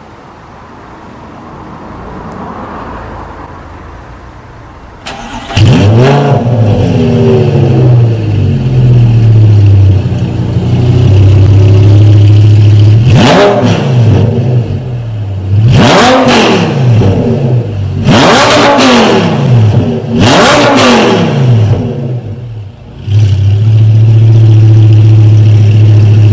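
Lamborghini Gallardo LP560-4's V10 engine through an Armytrix exhaust, firing up about five seconds in with a rev flare, then running loud. It is revved four times in quick succession, each rev sharp and falling back, then settles to a loud steady run again.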